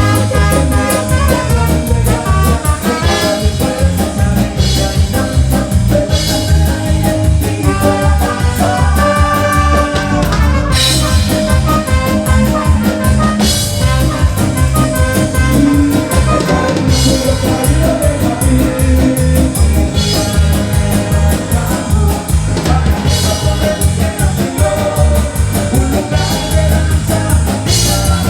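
Upbeat live band music with a steady drum-kit beat and instruments playing.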